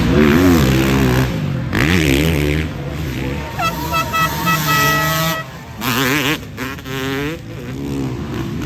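Motocross bike engines revving up and down on the track, with a horn blaring steadily for about a second and a half near the middle.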